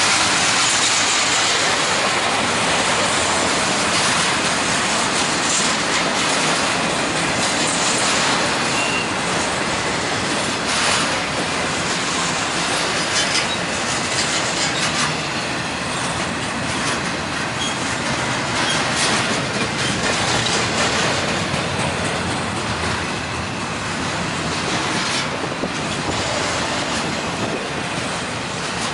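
A freight train of autorack cars and double-stack container cars rolling steadily past, with a continuous rush of steel wheels on rail broken by scattered clicks as the wheels cross rail joints.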